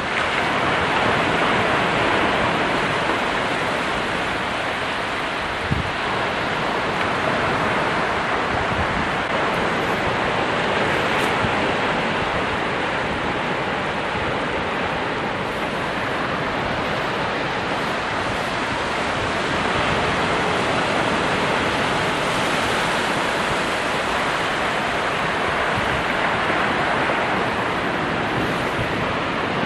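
Ocean surf: a steady wash of breaking waves that swells and eases slowly, with one short knock about six seconds in.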